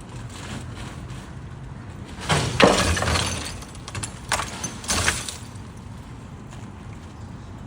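A loud crashing, rattling burst lasting about a second, then two shorter crashes, over a steady low rumble.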